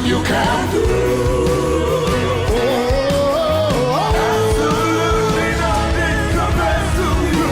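Live gospel worship music: a band with a steady low bass under sung vocals holding long, sliding notes.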